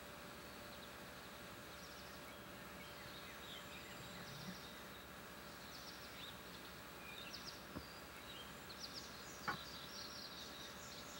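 Small birds chirping repeatedly, high and faint, over a steady background hiss. Two sharp clicks come in the last few seconds.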